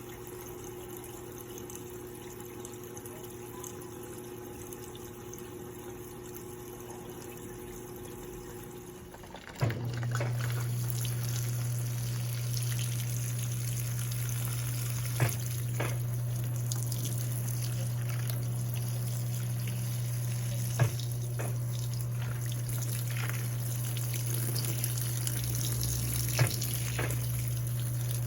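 Electrolux LPE16 washing machine humming steadily; about nine seconds in, water starts rushing into the tub over a louder, steady hum, and a sharp click comes about every five or six seconds. This is the machine's automatic level control topping the tub up to the next water level.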